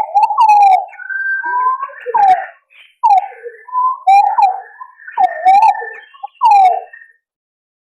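Green pigeon (punai) calls from a bird-lure recording: a series of whistled notes that slide up and down, some overlapping, and stop about a second before the end.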